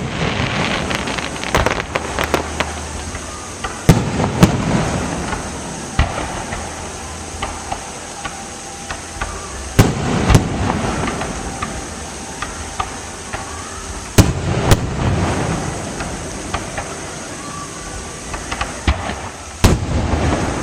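Aerial fireworks shells bursting: sharp booms a few seconds apart, several in quick pairs about half a second apart, each with an echoing tail. Bursts of crackling come near the start and again near the end.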